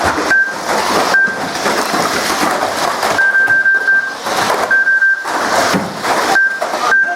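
Radio-controlled banger cars racing: a dense noisy clatter of the small cars running and knocking into each other, with a steady high tone that comes and goes several times.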